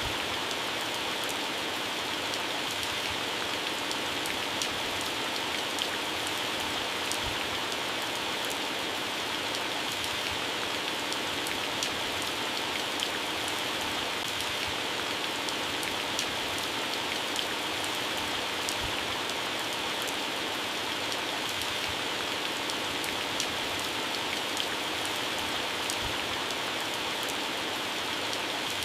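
Heavy rain falling steadily on garden plants, leaves and grass: a dense, even hiss with many small individual drop ticks, and now and then a heavier drop landing with a low thud.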